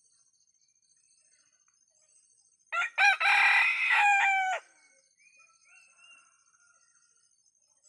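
An ayam kampung (Indonesian village chicken) rooster crows once, a loud call of about two seconds starting roughly three seconds in, followed by faint short bird calls over a steady high insect-like hum.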